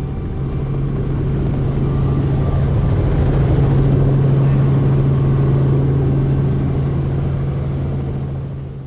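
Tour helicopter running steadily: a deep, even drone with a strong low hum, swelling a little and then fading out near the end.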